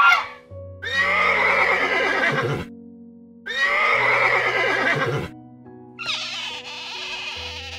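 A horse whinnies twice, each neigh about two seconds long and falling in pitch, over background music with sustained notes. A short goose honk ends at the very start, and about six seconds in a higher, squeakier animal call takes over.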